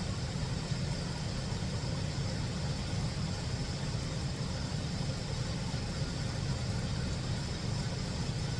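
A steady low hum of a running motor, even throughout with no clear pulses or breaks.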